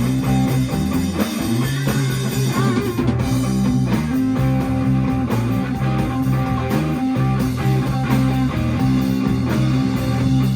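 Blues band playing live without vocals: electric guitar over bass and drum kit, with a guitar note bent and shaken in vibrato about two to three seconds in.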